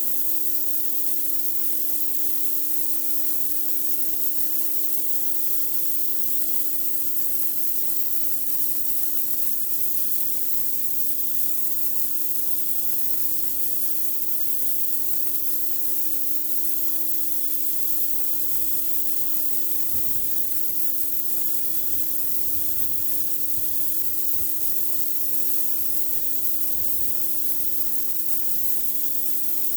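High-pressure water from a pressure washer blasting a concrete driveway: a steady, even hiss of spray, with the washer's motor humming a steady tone underneath.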